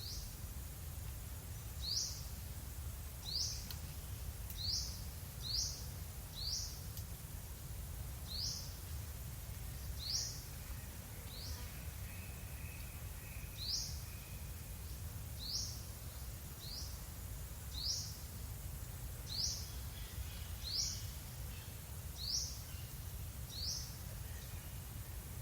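A bird repeating a short, high chirp about once every second or second and a half, over a steady low rumble.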